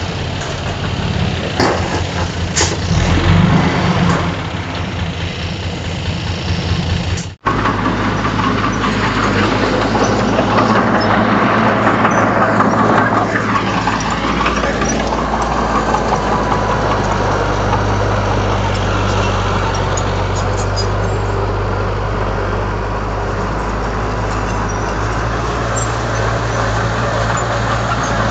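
Heavy diesel earthmoving machinery engine running, pulsing rhythmically at first. About seven seconds in the sound cuts off abruptly, then returns as a steadier, slightly louder engine drone.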